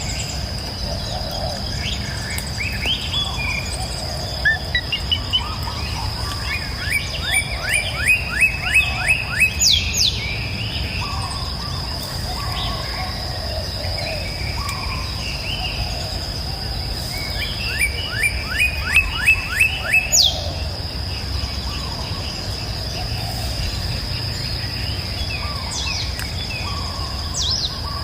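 Wild birds singing in a mixed chorus over a steady, high-pitched insect drone and a low, steady rush. Twice, about 7 and 18 seconds in, one bird sings a run of about ten quick, downward-sweeping notes.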